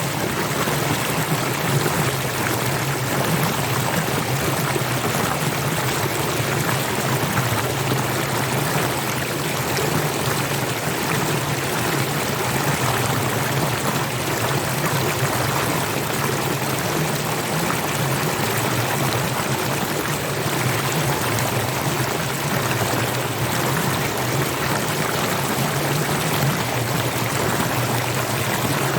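Waterfall water rushing: a steady, even noise with no breaks or changes.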